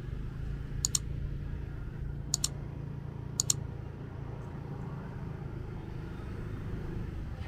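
Motorbike engine running steadily at low speed, a low hum. Three sharp double clicks come within the first four seconds.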